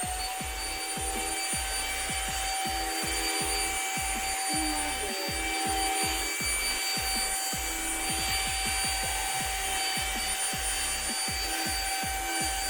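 Deerma CM800 handheld dust-mite vacuum running with a steady high motor whine, pushed over a sofa cushion with irregular rubbing and low thumping from its tapping head against the fabric.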